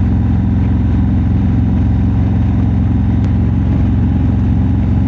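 Harley-Davidson motorcycle's V-twin engine running at a steady speed under way, with a single brief click about three seconds in.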